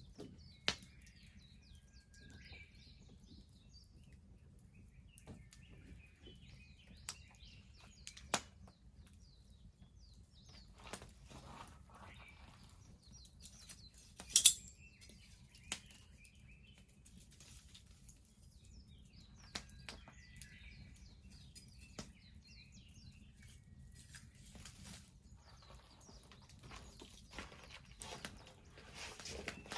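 Wood bonfire crackling, with scattered sharp pops, the loudest about halfway through, over a low steady rumble. Small birds chirp in the background.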